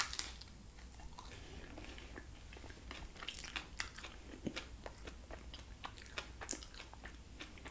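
A bite into a soft flour-tortilla fish taco filled with blackened mahi mahi and crunchy cabbage slaw, then quiet chewing with scattered small crunches and clicks. The bite is the loudest moment, right at the start.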